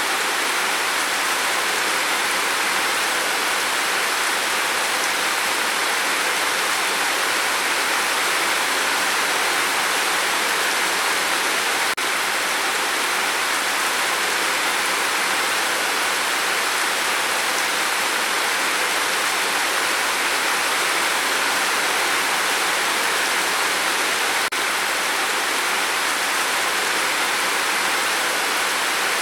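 Steady rain falling: an even, unbroken hiss. There is a faint tick about twelve seconds in and again near the end.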